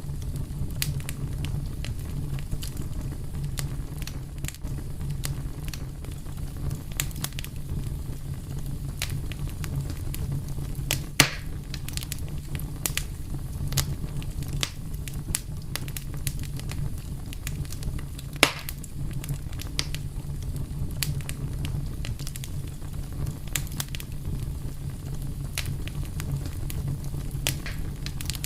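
Wood fire burning with a steady low rumble and frequent small crackles and pops, two of them louder, about eleven and eighteen seconds in.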